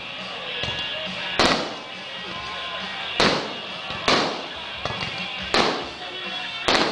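Aerial fireworks shells bursting overhead: five sharp bangs at uneven intervals, each with a short rumbling tail, over steady music.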